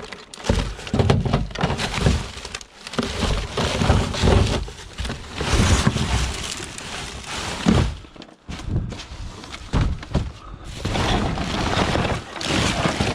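Junk being handled and pulled about: irregular knocks, thuds and clatter, with brief pauses.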